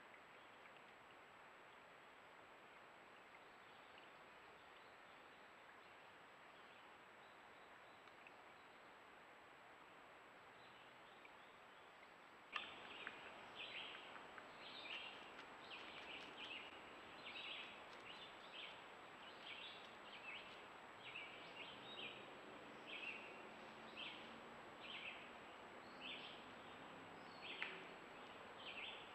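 Faint steady hiss of outdoor trail-camera audio. About halfway through it jumps up and a bird starts calling, short chirps repeated roughly once a second over the hiss.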